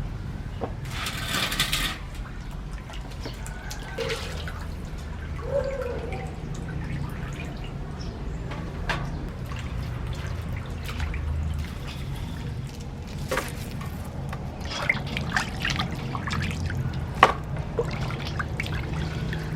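Liquid dripping and being poured, with scattered small clicks and knocks over a steady low hum.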